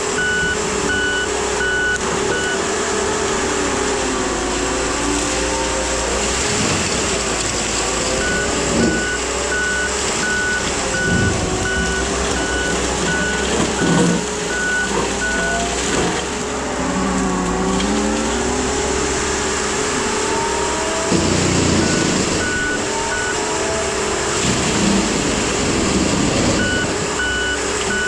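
Case skid steer running with its Shearex mulching head spinning, a steady whine over engine noise that rises and falls as it cuts weeds. The backup alarm beeps in stretches at the start, through the middle and near the end as the machine reverses.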